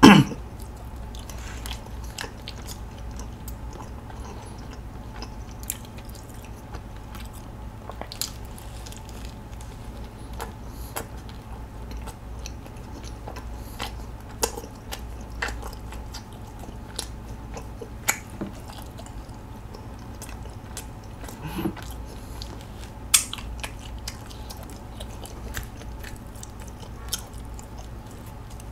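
Close-miked biting and chewing of a sausage pretzel: soft, wet mouth sounds with scattered small clicks and crackles, and a few sharper ticks along the way.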